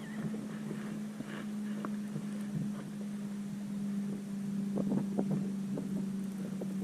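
A boat's outboard motor running at a steady, unchanging pitch, with wind noise. Scattered knocks become more frequent near the end.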